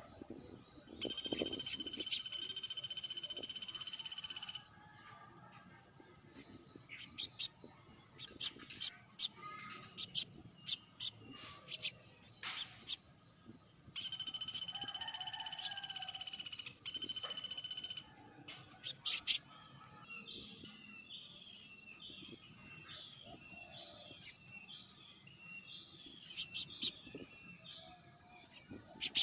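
Steady high-pitched drone of insects such as crickets, with a second steady tone coming and going twice, and scattered short sharp chirps over it that are loudest in clusters near the middle.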